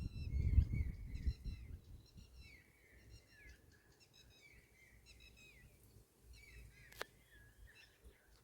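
A bird singing, repeating short phrases of chirps and whistles over and over. A low rumble fades out over the first two seconds, and there is one sharp click about seven seconds in.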